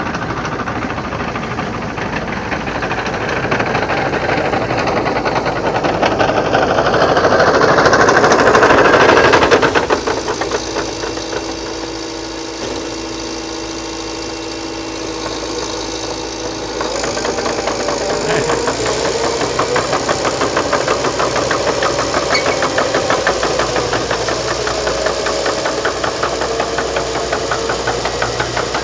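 Liebherr PR 726 crawler dozer running under load. The diesel swells louder over the first nine seconds or so, eases off about ten seconds in, and from about seventeen seconds in rises again with a fast, even rattle.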